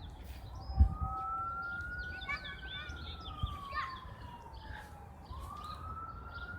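An emergency vehicle siren wailing: one slow rise and fall in pitch over about five seconds, then a second rise begins near the end. A few faint bird chirps sound over it about two to three seconds in.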